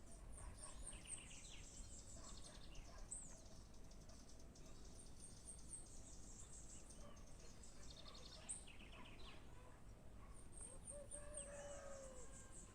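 Several wild birds calling faintly over a quiet rural background: quick runs of very high chirps, repeated rapid trills, and near the end a lower whistle that slides downward.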